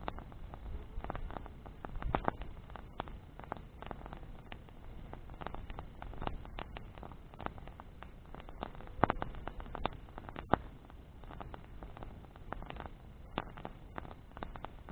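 Bonfire of burning branches crackling and popping irregularly, with a low rumble underneath; a few sharper pops stand out, two of them a little past the middle.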